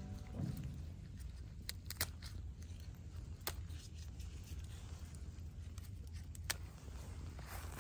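A faint low outdoor rumble with scattered single sharp ticks of raindrops dripping, a second or more apart. Background music cuts off just after the start.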